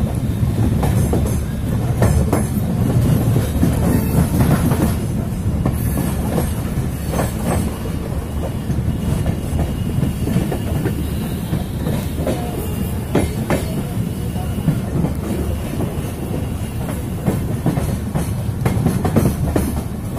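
Indian Railways passenger train running along the track, heard close beside the coach: a steady low rumble with irregular clicks and clacks from the wheels passing over the rails.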